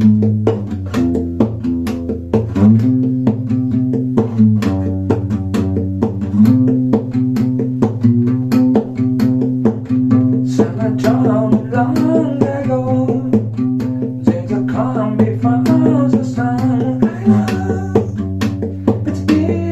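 A guitar strung with a single string, plucked in a steady rhythm of low bass notes. A singing voice joins about ten seconds in.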